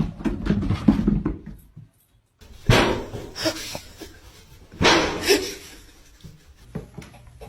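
A dog barking and vocalizing, with two loud outbursts about two seconds apart after a short break.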